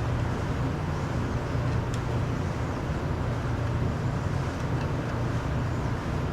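Steady low mechanical hum of a motor running, with a few faint clicks.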